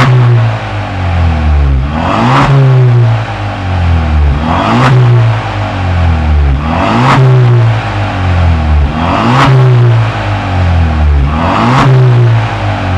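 Kia Stinger 3.3T twin-turbo V6 revved again and again through a valved variable exhaust: about every two and a half seconds the note climbs sharply and falls back to idle, six times over.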